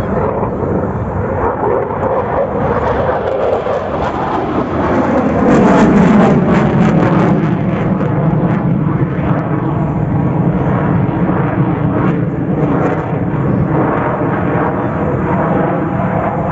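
Jet aircraft of the Patrouille de France display team, Alpha Jets, flying past overhead with a loud jet rush. Its pitch falls in the first few seconds, and it is loudest about six seconds in before it settles into a steady roar.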